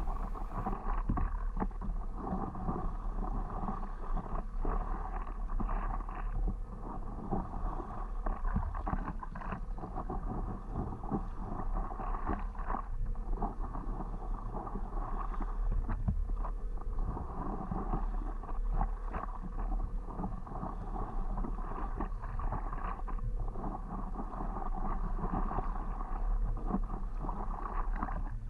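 Water splashing and lapping around a stand-up paddleboard as it is paddled, with uneven small splashes throughout and a low wind rumble on the microphone.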